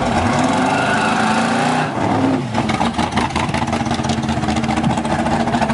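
Chevrolet Monte Carlo SS engine revving hard. There is a brief dip about two seconds in, then it runs on with a fast, rough pulsing.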